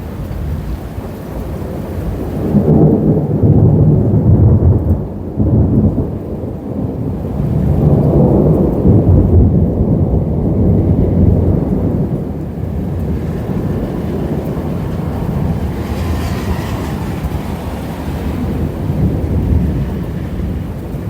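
Thunder rolling in long, deep rumbles, two big swells one after the other and a weaker one near the end, over the steady hiss of a rainstorm.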